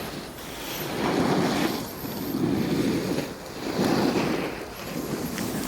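Edges scraping across packed snow in four swells about a second apart, the rhythm of linked turns on a downhill run.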